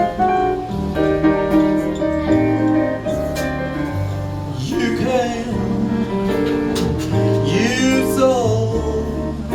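Live jazz ballad music: a slow instrumental passage with bass notes changing about once a second under sustained chords, and a melody line with vibrato that slides between notes about halfway through and again near the end.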